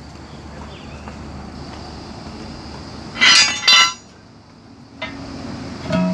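A short, loud burst of metallic clinking and rattling about three seconds in, over a low steady hum, with a softer clink near the end.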